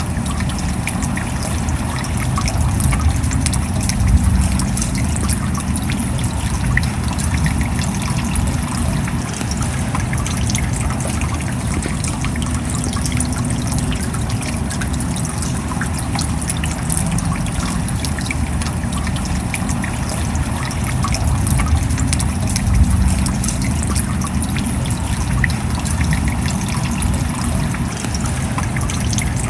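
Steady rain falling, with many small drop ticks over a low rumble.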